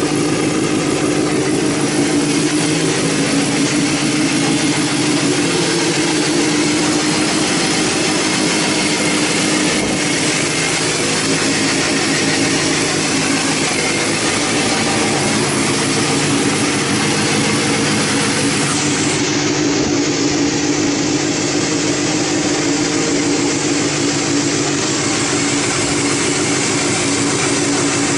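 Honda Hornet 250's inline-four engine idling steadily through an aftermarket short exhaust.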